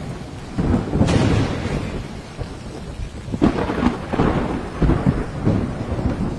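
Heavy rain falling steadily under a thunderstorm, with rolling thunder rumbling in surges: one about half a second in, and more from about three and a half seconds in.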